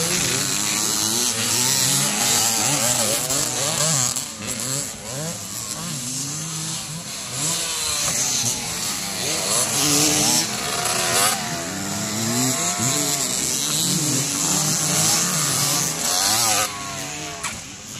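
Several motocross bike engines revving hard, their pitch rising and falling over and over as they overlap, with a whiny, high-pitched buzz. The sound drops somewhat near the end.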